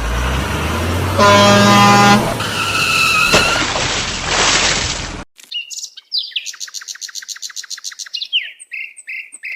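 Added sound effects: a loud car-type vehicle noise with a pitched blare, cut off abruptly about five seconds in, then rapid chirping and a series of short tweets.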